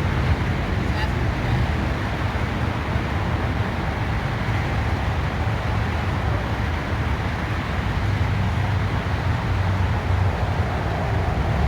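Steady low rumble of road traffic and vehicle noise, with no distinct events.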